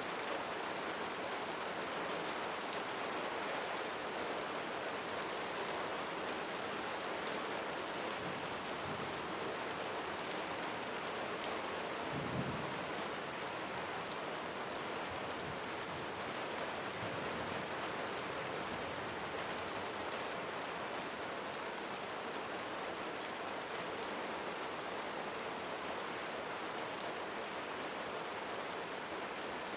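Steady rain falling on leaves, an even hiss with scattered individual drops ticking. A brief low thump about twelve seconds in.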